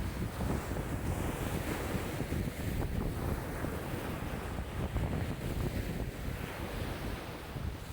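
Choppy lake waves lapping and splashing in a strong wind, with wind buffeting the microphone. The wind rumble rises and falls in gusts.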